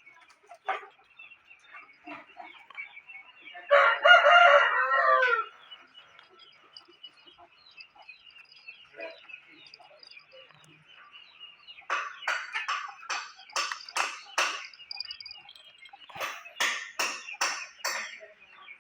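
Poultry calling: one long, loud call about four seconds in, then from about twelve seconds a run of short repeated calls, roughly two a second.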